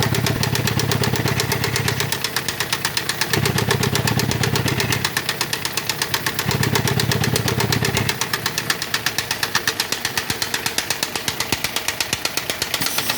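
Fiat Idea Adventure's 1.6 16-valve four-cylinder engine running with a rapid, even knocking clatter; a low hum under it swells and fades three times in the first eight seconds. The mechanic takes the noise, with heavy crankcase pressure, for a sign of broken piston rings, though he says other faults could cause it.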